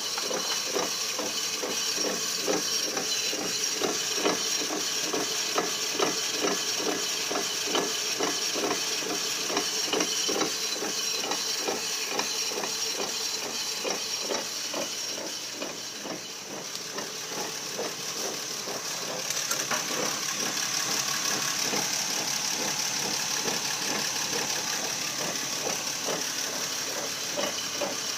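Rhythmic grinding from a 2004 Nissan Quest's drive axle, which is not seated properly in the transmission. The grinding repeats at an even pace, weakens about halfway through, and then gives way to a steady hiss.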